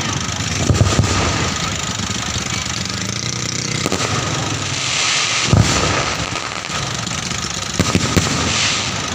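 Close-range fireworks going off, with several sharp bangs over a steady background and stretches of crackling fizz in the middle and near the end.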